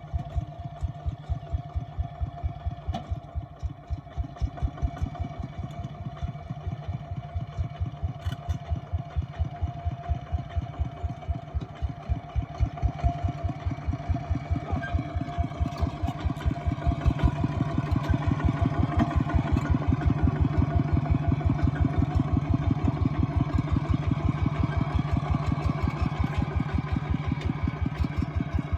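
Small tractor engine running, a steady train of regular low exhaust beats, several a second, getting louder a little past halfway through.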